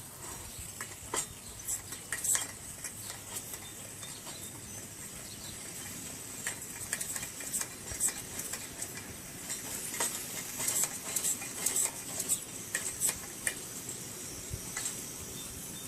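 Light, irregular clinks and taps of metal camp cookware being handled, over a faint steady hiss.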